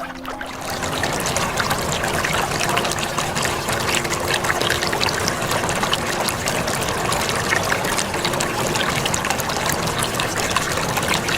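Running water: a stream trickling and splashing steadily, full of small droplet clicks, swelling about a second in.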